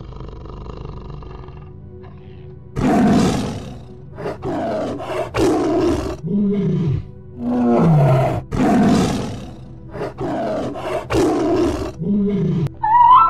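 Big cat roaring and growling: a series of about eight rough roars starting about three seconds in, some ending in a falling moan.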